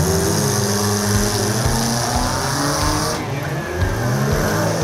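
Several demolition derby cars' engines revving hard at once, their pitches rising and falling over each other. A steady hiss lies over the first three seconds, and a single sharp knock comes a little under four seconds in.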